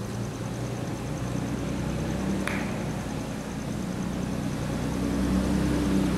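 An engine running steadily with a low hum, getting louder towards the end, as if a vehicle is drawing closer. A single short click about two and a half seconds in.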